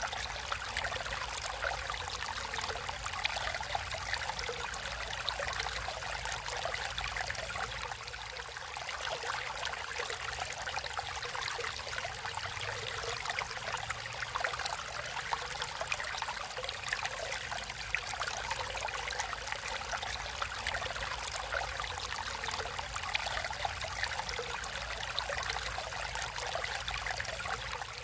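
Natural running water flowing steadily, an even rush with dense fine splashing.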